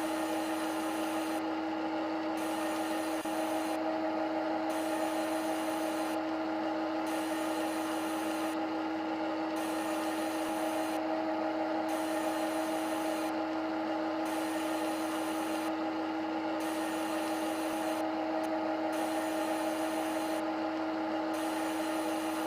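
Machine motor running steadily with a constant whine, a high hiss over it cutting out briefly about every two and a half seconds.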